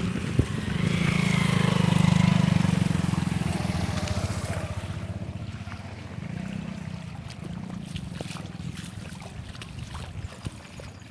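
A motor vehicle's engine passing close by, loudest about two seconds in and then fading away.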